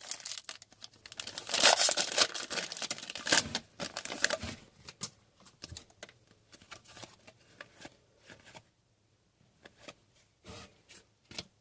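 Foil hockey card pack wrapper being torn open and crinkled, busiest in the first four seconds or so. After that come only scattered faint clicks and flicks of cards being handled.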